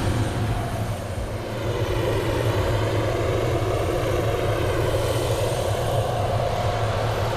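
Helicopter running steadily: a constant low drone of rotor and turbine engine.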